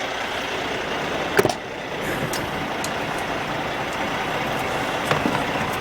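Heavy diesel truck idling steadily, with a sharp click about a second and a half in and a fainter one near the end.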